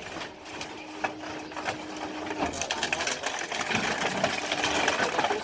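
Heavy machinery crushing a car: a rapid mechanical clatter with scattered cracks and crunches of metal, growing louder from about halfway through.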